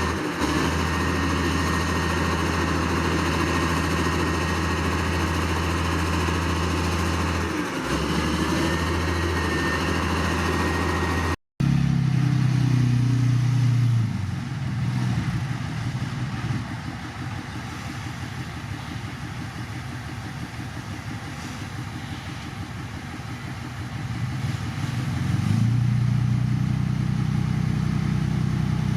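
Heavy diesel engine of earthmoving machinery running steadily under load. After an abrupt edit cut partway through, an engine runs loud, drops back to a lower, quieter speed a few seconds later, and revs up again near the end.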